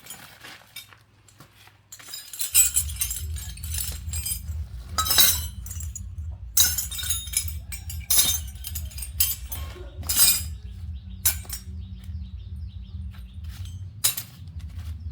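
Sharp metallic clinks and knocks, irregularly spaced, over a steady low hum that starts about two and a half seconds in.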